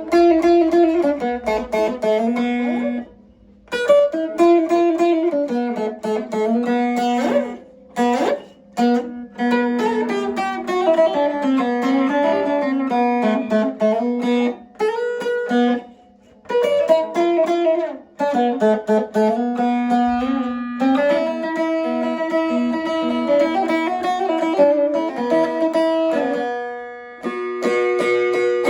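Double-necked doğaç, a plucked long-necked saz-type lute, being played solo: melodic phrases picked over a recurring low note, with a few short pauses between phrases.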